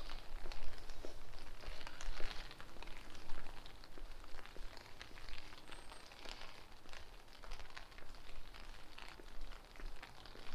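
Rain falling, with many separate drops ticking close by over a steady low rumble of wind on the microphone.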